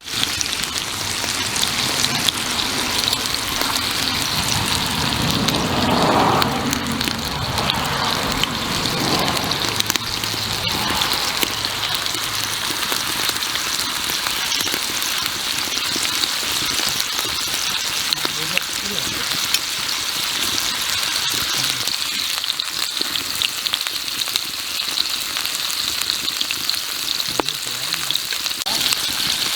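Pork belly sizzling steadily as it cooks: an even, continuous hiss of fat spitting on hot metal, with faint voices a few seconds in.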